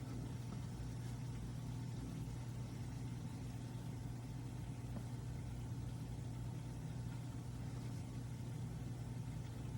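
De'Longhi Dinamica Plus espresso machine running with a steady low hum.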